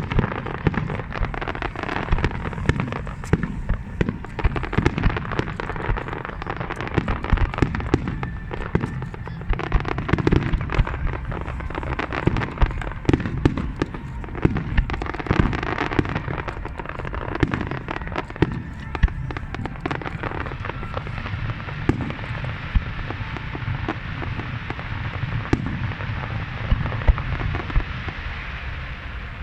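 Fireworks display: a continuous barrage of shell bursts, bangs and crackling, several each second.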